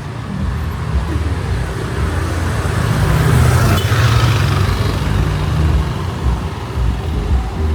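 Street traffic: a motor vehicle's engine runs close by with a steady low rumble. A pass swells to its loudest about halfway through, then eases.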